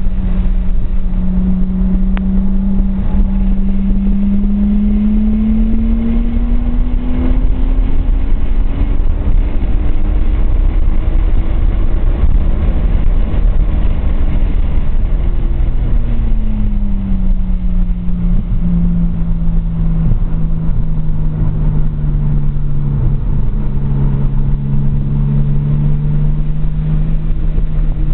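Nissan RB20DET turbocharged straight-six heard from inside the 240SX's cabin, climbing steadily in revs for about twelve seconds along a straight, then dropping sharply and settling at lower revs into a corner. A steady low rumble runs underneath.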